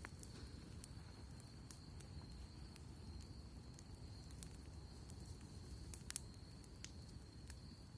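Campfire crackling quietly: scattered small pops over a low steady rumble, with one sharper pop about six seconds in. A faint steady high whine sits underneath.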